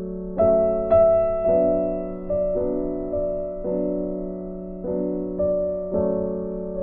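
Background music: a slow, gentle piano or electric-piano piece, with chords and notes struck every second or so and left to ring.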